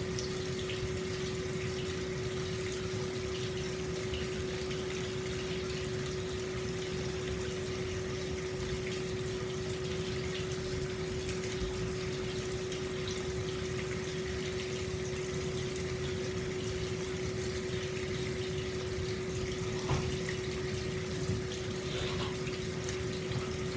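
Hot-spring water pouring steadily from a spout into an open-air stone bath, a continuous splashing flow, with a steady low hum beneath it and a few small splashes near the end.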